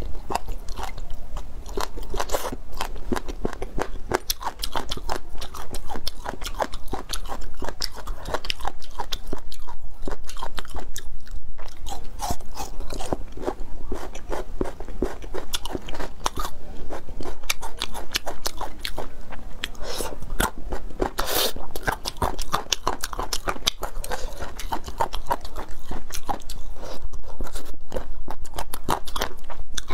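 Close-up chewing and biting of crunchy food: a continuous run of crisp, wet crunches from a person eating.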